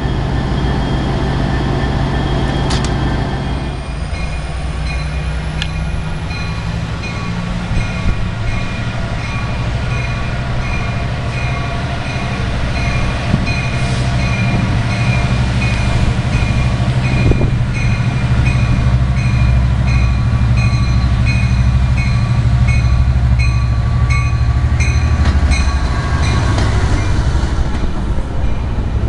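Diesel engine of a Coaster F59PHI locomotive running with a loud steady drone, while a bell rings over and over from about eight seconds in. Near the end the bilevel passenger cars roll past.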